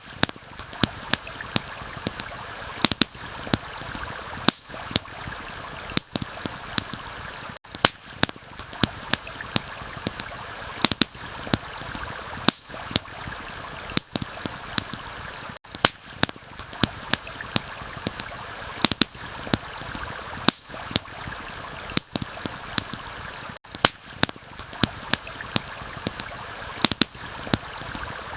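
Steady rush of running water from a stream, with frequent sharp, irregular crackles and pops of a wood campfire over it.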